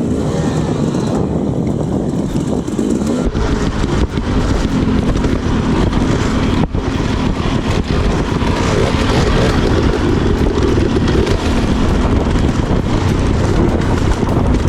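Dirt bike engine revving up and down as it is ridden hard through mud on enduro single track.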